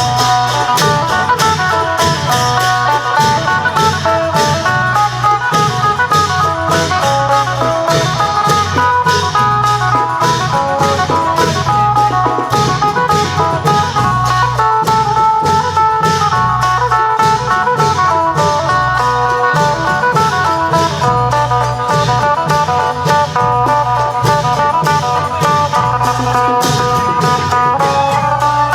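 Isan phin, a plucked lute, playing a busy, fast melody over klong yao long drums and other percussion keeping a steady beat: northeastern Thai procession music.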